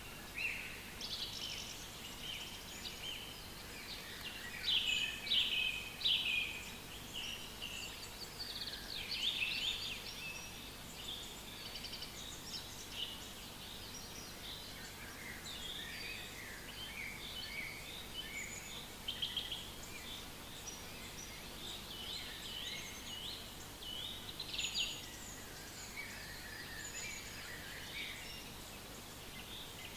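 Several songbirds singing and calling at once in a forest chorus of short, overlapping chirps and trills, busiest over the first ten seconds or so.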